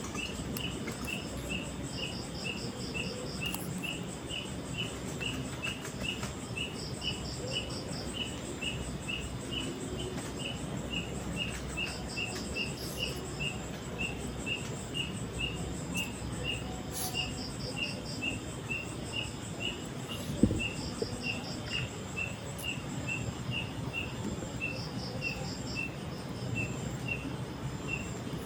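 Night insects chirping: one steady chirp repeating about two to three times a second, with short pulsed cricket-like trills every few seconds, over a low steady rushing noise. A single thump about twenty seconds in.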